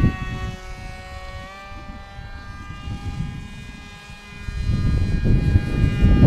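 Electric motor and propeller of a foam RC plane whining steadily in flight, its pitch stepping up slightly about one and a half seconds in. A low rumbling noise is loud at first, fades, and swells again near the end.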